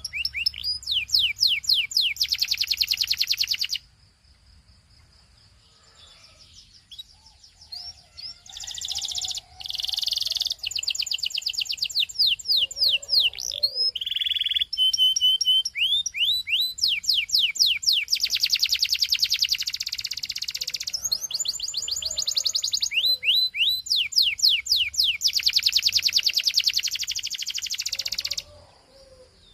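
Belgian canary singing: long, fast trills of repeated downward-sweeping high notes, rolling on in phrases. The song stops for a few seconds around the fourth second, then resumes and breaks off briefly near the end.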